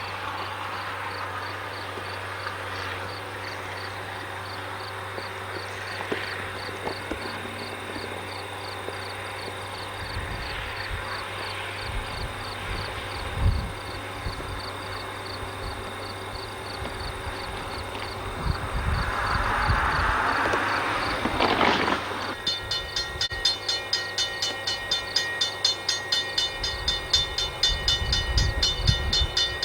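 Insects chirping steadily while a freight train approaches; about two-thirds of the way in a fast, regular ringing starts, two or three strokes a second, with the train's low rumble growing beneath it.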